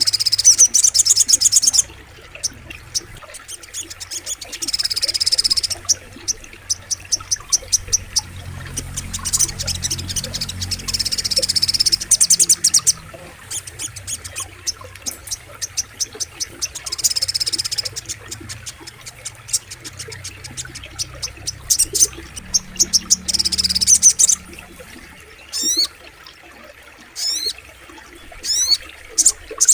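Sogok ontong sunbird singing: bursts of rapid, very high trills, each a second or two long and repeated every few seconds, with quick ticking chip notes between them. Near the end come several quick falling whistled notes. A low rush of flowing water sits underneath.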